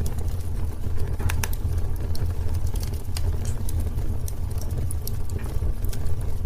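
Wood fire burning in a fireplace: irregular sharp crackles and pops over a low, steady rumble of the flames, with a quick cluster of pops a little over a second in.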